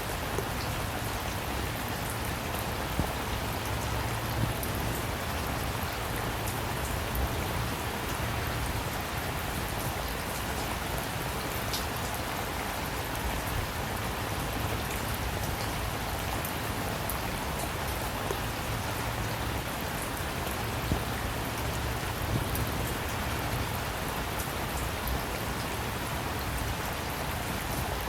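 Steady rainfall, an even hiss of rain with individual drops ticking sharply now and then.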